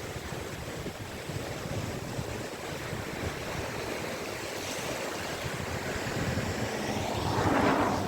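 Caspian Sea surf: small waves washing steadily onto the beach, with one wave breaking louder near the end.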